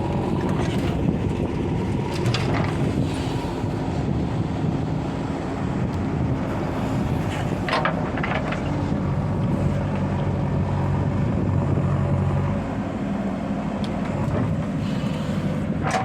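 Diesel engines of a backhoe loader and tractors running steadily while soil is dug and loaded, with a few brief sharp knocks from the work.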